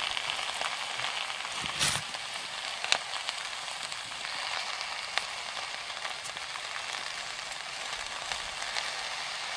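Yucca blossoms frying in butter in a cast iron skillet: a steady sizzle, with a few sharp clicks about two, three and five seconds in.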